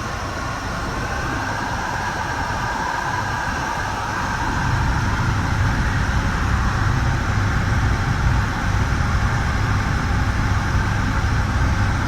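Steady running noise of a Metra bi-level commuter cab car at speed, heard from inside: wheels rolling on the rails with a low rumble that grows a little louder about four seconds in.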